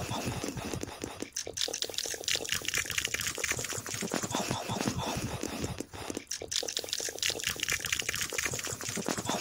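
Close wet chewing and crunching sounds: a dense, rapid crackle of mouth noises that breaks off briefly about a second in and again about six seconds in.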